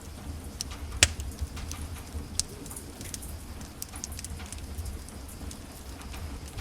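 Wood fire crackling in a fireplace: irregular sharp pops and snaps over a low, steady rumble of flame, with one loud pop about a second in.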